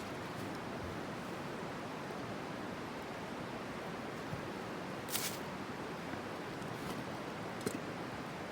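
Steady hiss with a few sharp pops, the loudest about five seconds in and another near the end: a small campfire crackling.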